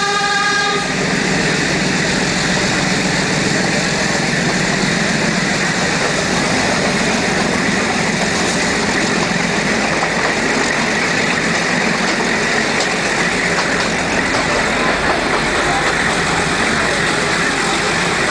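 Ooty toy train carriage running along the track, a steady noise heard from inside the carriage by an open window. A train horn, a steady many-toned note, cuts off just under a second in.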